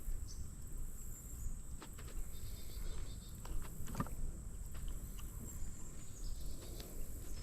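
Outdoor background noise: a steady low rumble and a high steady hiss, with scattered light clicks and ticks, one a little sharper about four seconds in.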